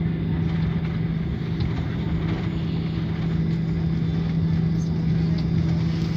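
Steady hum inside the cabin of an Airbus A340 airliner: a constant low drone over an even rush of air noise.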